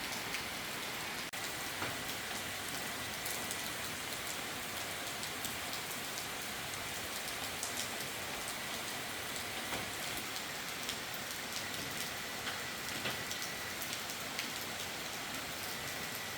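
Rain falling steadily in a storm: a dense, even hiss dotted with many small drop ticks.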